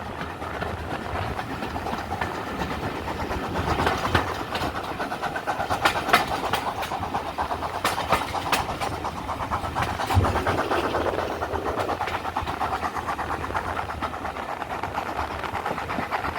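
Steam train hauled by GWR 2-8-0 tank engine 5239 Goliath running by, its wheels clicking quickly and steadily over the rail joints, with a few sharper knocks along the way.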